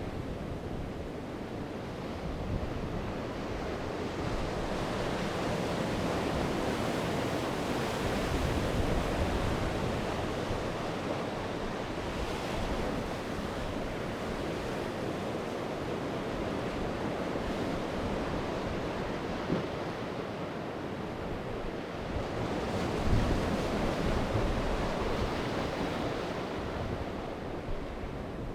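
Sea waves breaking and washing on the shore in a steady surge that swells and eases every several seconds, with wind buffeting the microphone.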